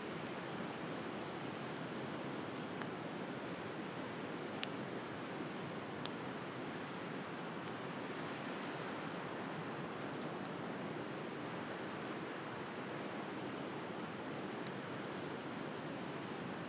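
Steady wash of sea waves with a wood fire crackling over it in scattered small pops, the clearest about four and a half and six seconds in.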